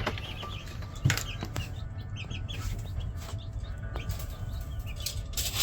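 Baby chicks, Rhode Island Reds and Jersey Giants, peeping in their box: many short high peeps, thinning out after the first couple of seconds, with a few sharp knocks and a steady low rumble underneath.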